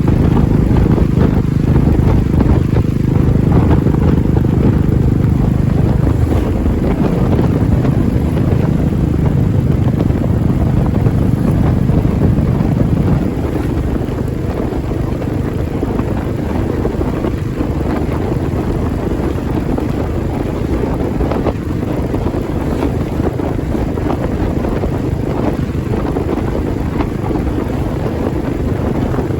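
Royal Enfield Classic 350's single-cylinder engine running with a deep, steady thump, and wind noise on the microphone. The engine note falls about six seconds in, and the sound gets slightly quieter about thirteen seconds in.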